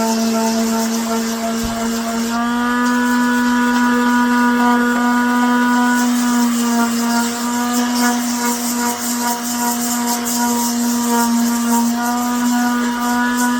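Electric palm sander running steadily with a constant motor hum and a high hiss of sanding. It is sanding down the filled seams of a 3D-printed helmet.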